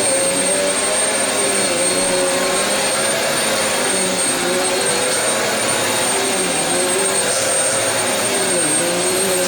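Aspiron 1200W upright bagless vacuum cleaner running on carpet: a loud, steady motor hum and rush of air, its pitch wavering slightly up and down, with a thin high whine over it.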